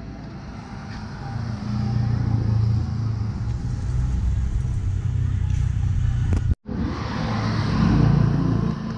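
Yamaha R25 parallel-twin engine running through a Prospeed full-system exhaust, a steady low exhaust note that breaks off abruptly about two-thirds of the way through and comes back louder.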